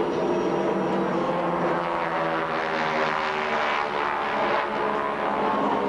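Airplane engine drone as a plane flies past, steady in loudness, its tone shifting and bending around the middle as it goes by.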